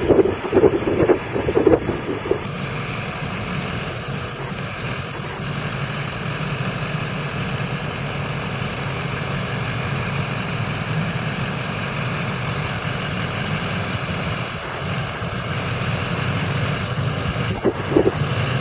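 6.6 L LLY Duramax turbodiesel V8 of a 2005 Chevrolet Silverado 3500 running steadily, with a few louder bursts in the first two seconds.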